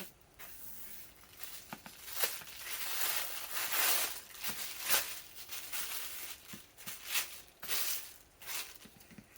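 A plastic bag rustling and crinkling as it is handled, with irregular swells of noise and a few light clicks and knocks.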